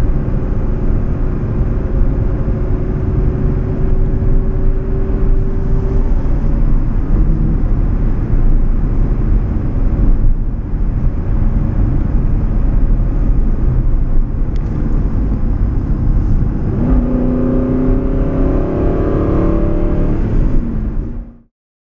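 Aston Martin Vantage GTS V8 heard from inside the cabin while driving: a steady drone of engine and road noise. About three-quarters of the way through, the engine note rises as the car accelerates, and then the sound cuts off abruptly just before the end.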